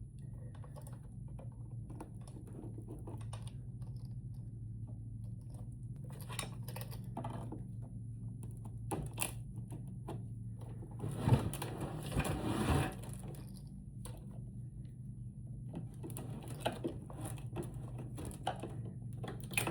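Clicks, taps and scraping of tools working at a lithium battery's plastic case as it is cut open, over a steady low hum. There is a louder stretch of scraping about eleven seconds in.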